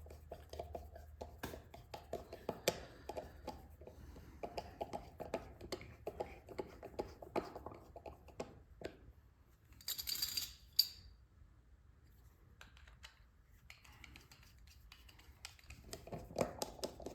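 Small metallic clicks, taps and scrapes of carburetor parts and a screwdriver being handled as the jet is screwed in. About ten seconds in, a short hiss ends in a sharp click.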